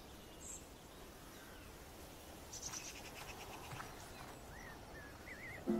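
Faint outdoor garden ambience with small birds chirping: a quick run of ticking notes about two and a half seconds in, and a few short warbling chirps near the end.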